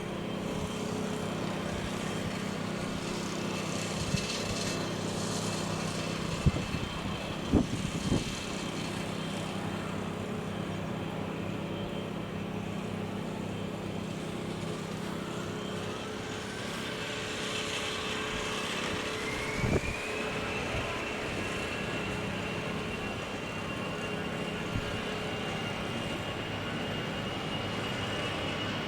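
Airbus A320's CFM56 turbofan engines over a steady rumble, with a whine that rises for about five seconds around two-thirds of the way through and then holds steady as the engines spool up to takeoff power. A few short thumps come in between.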